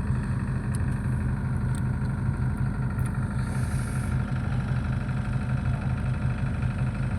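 A fishing boat's engine idling steadily with an even low pulse, and a brief hiss about halfway through.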